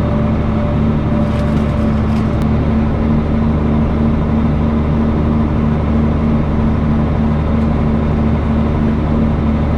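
Tractor engine running steadily under load, heard from inside the cab as an even low drone, with a few faint crackles about a second in.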